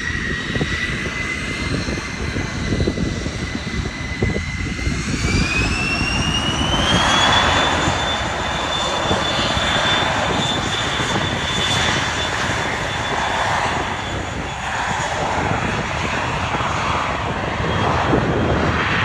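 Dassault Falcon 900's three Honeywell TFE731 turbofan engines spooling up to takeoff power: a high whine rises in pitch about five seconds in, then holds steady over a low roar.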